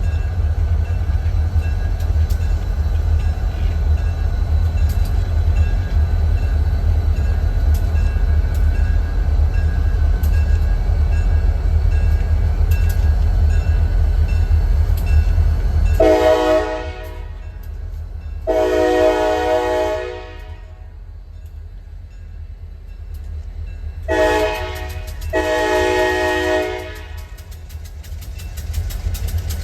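Diesel locomotive horn of a Wheeling and Lake Erie freight train sounding four blasts in two pairs, each pair a shorter blast then a longer one, after about sixteen seconds of a heavy low rumble from the train.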